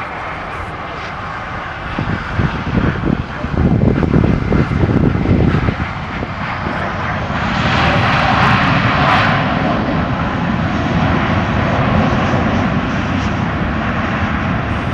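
Airliner jet engines running loud as an aircraft goes by. A low rumble builds about two seconds in, and a higher hiss swells to a peak around eight to nine seconds, then eases a little.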